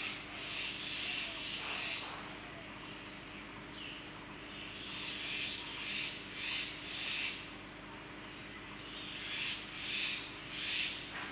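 Outdoor ambience: birds chirping in repeated bursts over a steady low hum.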